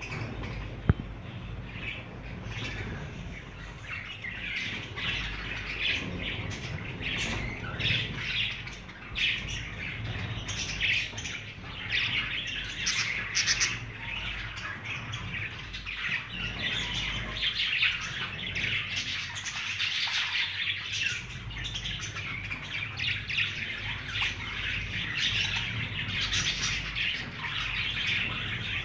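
Budgerigar colony chattering continuously: many overlapping chirps and squawks, with a low hum underneath. A single sharp click about a second in.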